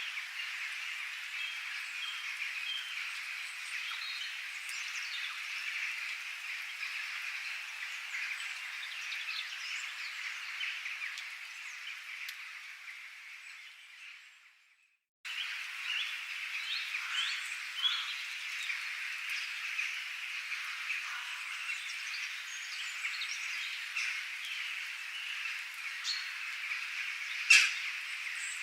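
A dense, continuous chorus of frogs with birds chirping over it. About halfway through, the chorus fades out to a moment of silence, then a similar chorus starts again abruptly.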